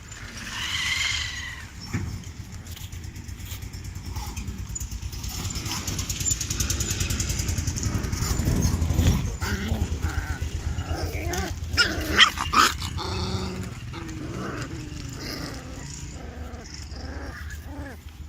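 Corgi puppies play-fighting, growling at each other, with sharp barks around twelve seconds in.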